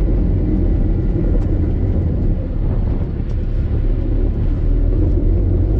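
Car engine and road rumble heard from inside a moving car held in second gear: a steady low drone that eases slightly about two and a half seconds in.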